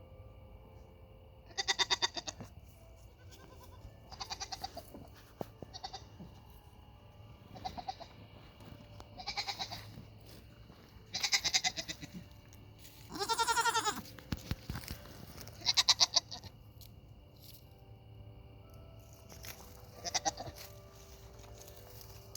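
Nigerian dwarf goats bleating again and again, about eight wavering bleats with pauses between them, the longest one near the middle. They are hungry.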